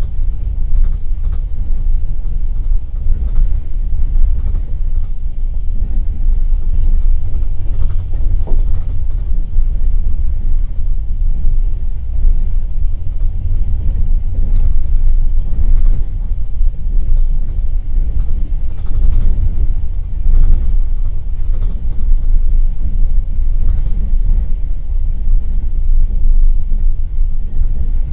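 Passenger train carriage running at speed, heard from inside: a steady low rumble from the wheels on the track, with creaks and scattered knocks from the carriage body and running gear.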